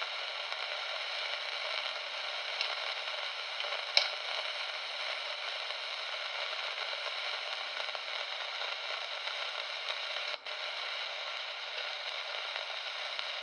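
Steady crackling, hissing static from a switched-on monitor, with a sharp click about four seconds in and a brief dropout near ten seconds. The owner likens it to radio interference.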